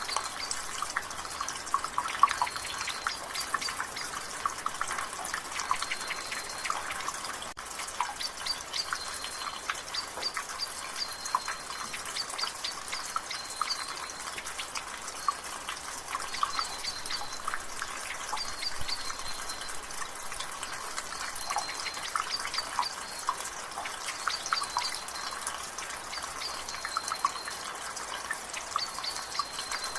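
Water dripping from a gutter in an irregular, dense patter over a light hiss of rain. A short high bird call repeats every second or two in the background.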